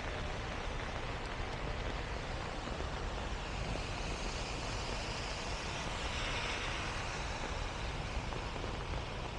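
Steady heavy rain, with a vehicle swelling up and passing on the wet road in the middle.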